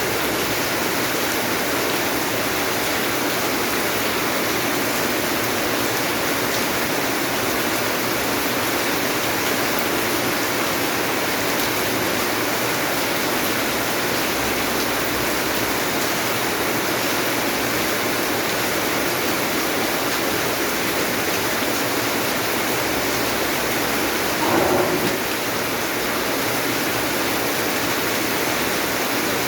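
Heavy rain falling steadily, an even rushing hiss, with a brief louder sound about 25 seconds in.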